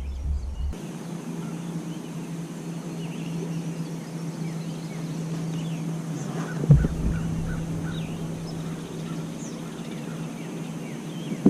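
Scattered bird calls over a steady low hum, with one sharp knock about seven seconds in.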